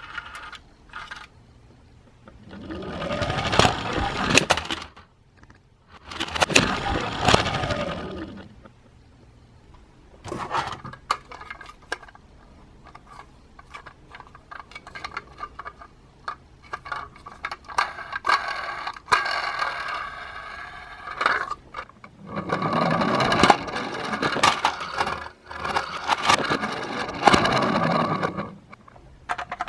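Toy die-cast minicars clicking, scraping and clattering along a plastic toy track. There are two longer, louder stretches, a few seconds in and again near the end.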